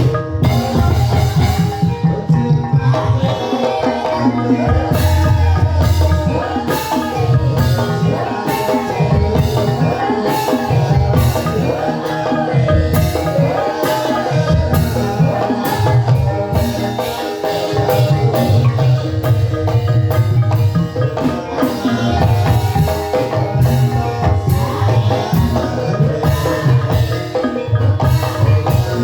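Gamelan-style ensemble music for ebeg dance: hand drums beat a steady pattern under a repeating melody on mallet-struck bars.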